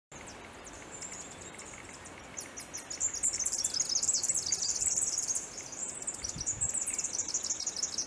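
Superb fairy-wren singing: a high, rapid reeling trill, quieter at first and louder from about two and a half seconds in, over a faint steady hiss.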